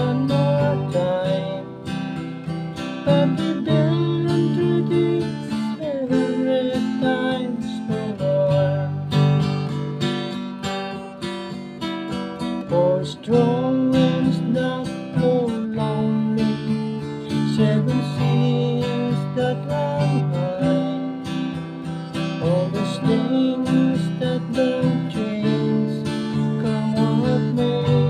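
Acoustic guitar strummed in a steady folk accompaniment, changing chords every couple of seconds, with no singing.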